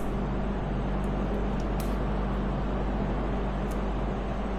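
Steady low mechanical hum with an even noise underneath, and a few faint light clicks.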